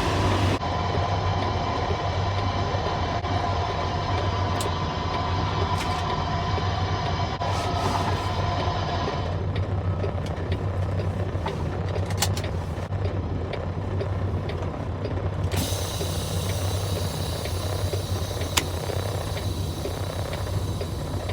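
Semi truck's diesel engine running steadily on the road, a constant low drone with road noise and a few light clicks and rattles.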